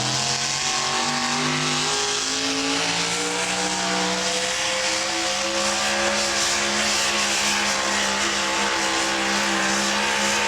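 Super modified four-wheel-drive pulling truck's engine running at high revs under load during a pull. Its pitch climbs over the first few seconds, then holds steady.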